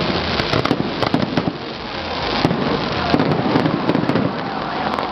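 Aerial fireworks going off in a dense, continuous barrage of bangs and sharp crackles.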